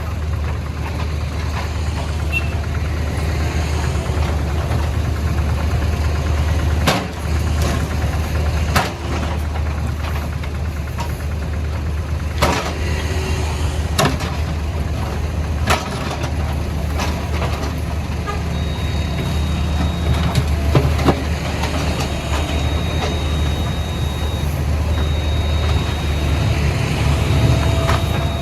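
Backhoe loader's diesel engine running steadily under load, with several sharp knocks as its bucket breaks up road pavement. Through the second half a high steady tone sounds on and off.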